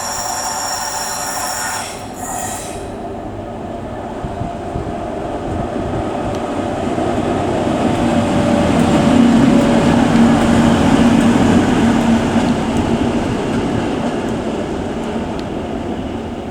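Class 60 diesel-electric locomotive running light engine past, its engine and wheels rumbling louder as it passes, with a steady low engine tone, then fading away. A high-pitched squeal cuts off about two seconds in.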